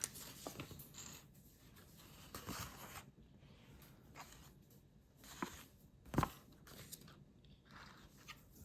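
Plastic toy building bricks and their packaging being handled: faint scattered rustling and light clicks, with a sharper click about six seconds in.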